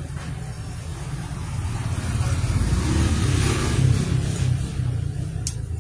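A steady low rumble that swells louder through the middle and eases off again, with a single sharp click near the end.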